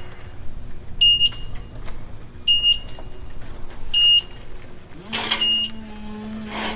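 Reverse backup alarm on a machine beeping at a steady pace, one short high beep about every second and a half. About five seconds in, a motor's pitch rises and settles into a steady hum.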